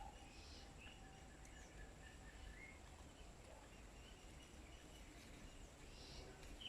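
Faint, scattered bird chirps and short calls over a quiet low background rumble.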